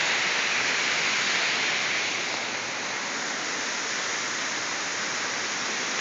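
Waterfall crashing steadily close by, a constant rush of falling water.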